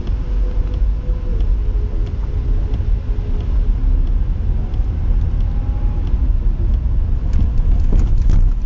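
A car driving, its engine and road noise making a steady low rumble, with a few short sharp clicks or knocks near the end.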